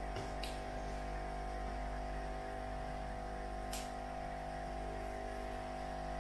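Steady electrical hum, with a constant tone around 700 Hz over a low drone, broken by two faint short ticks: one just after the start and one a little past halfway.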